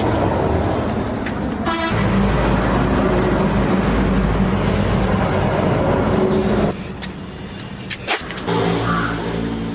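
An engine running steadily, with a short rattling burst about two seconds in; the engine sound drops to a lower level about seven seconds in.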